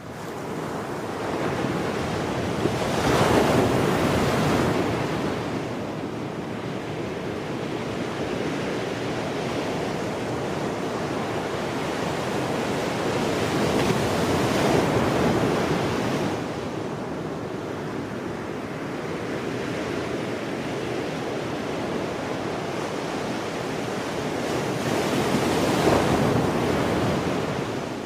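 Sea surf and strong wind at the shore: a steady rush of noise that swells three times, about every eleven seconds.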